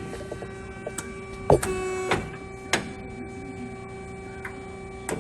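Mega BS-360SA horizontal band saw's hydraulic vise being worked over a steady machine hum, with several sharp mechanical clunks and clicks, the loudest about a second and a half in.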